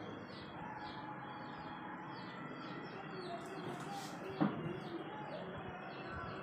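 Aseel chicks peeping: a steady run of short falling peeps, two to three a second. A single sharp knock sounds about four and a half seconds in.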